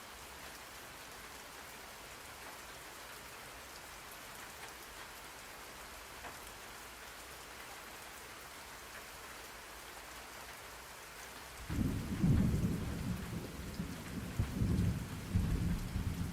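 Steady rain hiss, with a rolling rumble of thunder breaking in about three-quarters of the way through and swelling unevenly.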